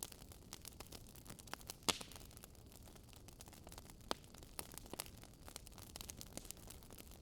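Faint crackling of a burning wood fire: irregular small pops and snaps over a soft hiss, with one louder pop about two seconds in.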